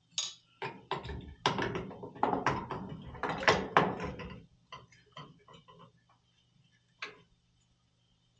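Clicking, knocking clatter of metal parts and hand tools being handled, dense for the first four seconds or so, then a few scattered clicks.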